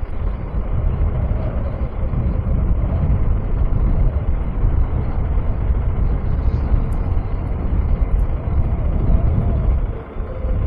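A motorcycle ride as heard from a bike-mounted or rider's microphone: loud, low wind rumble buffeting the mic over the KTM 390 Adventure's single-cylinder engine running underneath. The rumble eases briefly near the end.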